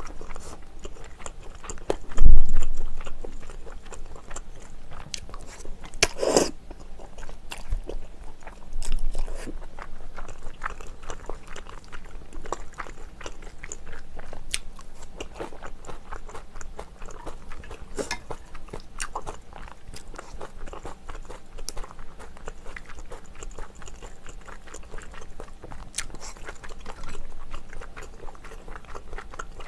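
Close-miked eating of chewy wide glass noodles in spicy braised chicken sauce: wet chewing with many small mouth clicks, a low thump about two seconds in and a louder noisy burst about six seconds in.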